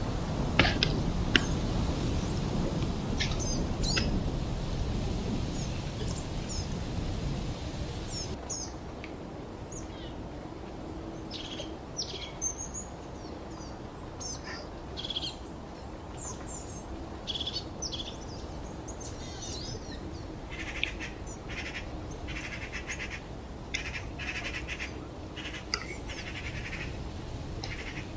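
Wild songbirds chirping and calling in short, scattered phrases over a steady low rushing background, with a few sharp clicks in the first seconds.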